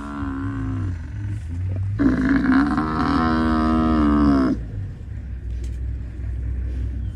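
African buffalo bellowing in distress under attack by lions: two long calls, the second louder, from about two seconds in to about four and a half seconds, over a steady low rumble.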